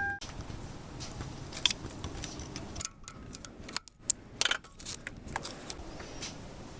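Scattered light clicks and small metallic rattles over a low rumble, the sharpest of them clustered a little before the middle and just after it.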